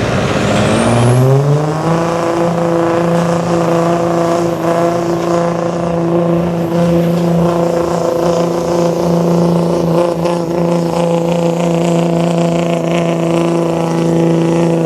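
Cummins inline-six turbodiesel in a 2006 Dodge pickup, run at full throttle while pulling the sled. The revs climb over the first couple of seconds with a high whistle rising alongside, then hold at a steady high pitch.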